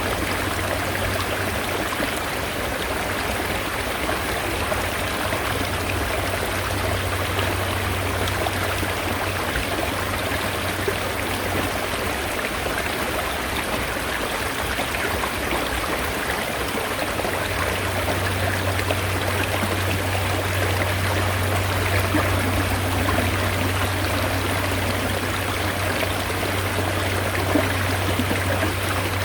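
Mountain stream flowing steadily, a dense even wash of water. A low steady rumble sits under it, fades for several seconds in the middle, then comes back.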